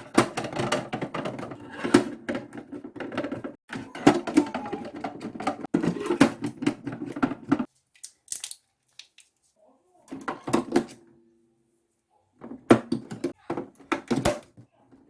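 Rapid clicking and knocking of small plastic toy-washing-machine parts being handled and worked on, in close-by bursts with two short pauses in the middle.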